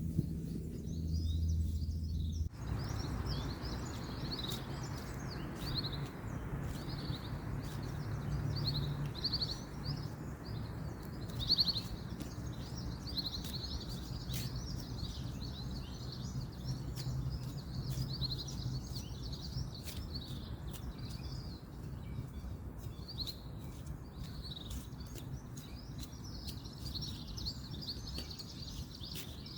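Small birds chirping and twittering continuously over a steady background hiss and low hum, typical of distant road noise; the hiss gets suddenly louder about two and a half seconds in.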